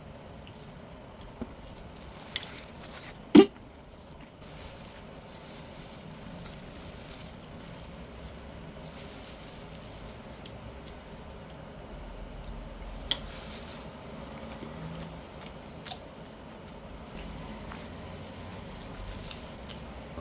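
Tableware knocking and clinking a few times while eating, the loudest a short ringing knock a few seconds in, over a low steady background hum.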